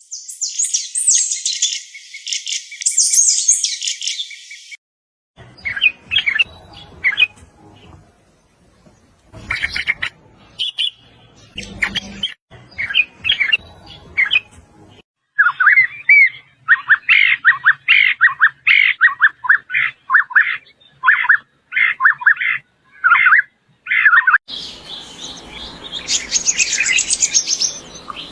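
Small songbirds singing and calling in several separate stretches: high, fast trills at first, then scattered chirps, then a run of quick repeated short phrases, and another trill near the end.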